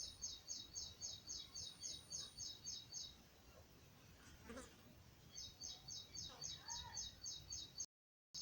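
A small bird chirping in quick, evenly repeated high notes, about four or five a second, in two runs with a short pause between them. The sound cuts out abruptly near the end.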